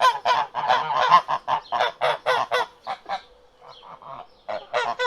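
A flock of birds giving rapid, repeated honking calls, several a second. The calls thin out about three seconds in and pick up again near the end.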